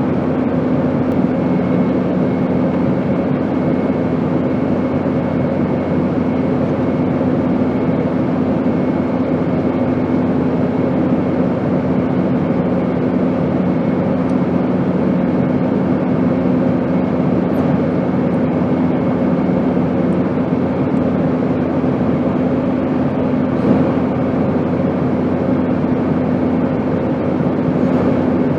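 Airplane in flight: a steady, unchanging rushing drone with a constant low hum.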